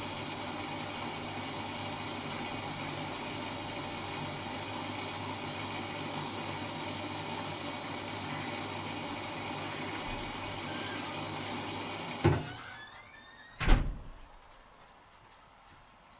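Servis Automatic M3008B washing machine taking in water with a steady rushing hiss. About twelve seconds in the fill cuts off suddenly with a clunk, and a second, louder clunk follows a moment later: the fill has ended as the programme moves to its heating stage.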